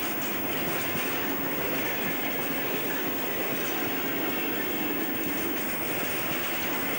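Freight wagons of a mixed container and tank-wagon train rolling past: a steady rumble and rattle of wheels on the rails.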